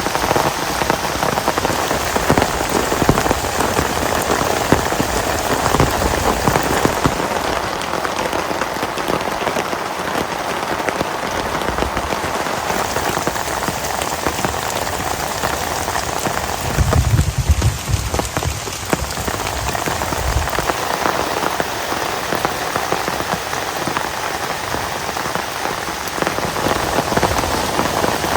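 Heavy rain falling steadily, a dense patter of drops on a surface. A brief low rumble about two-thirds of the way through.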